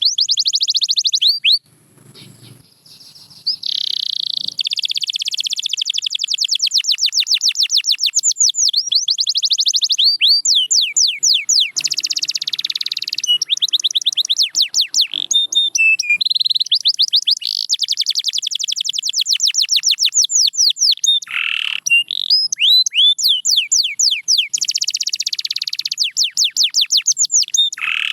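Canary singing in long, fast trills of rapidly repeated high notes, with a brief pause about two seconds in.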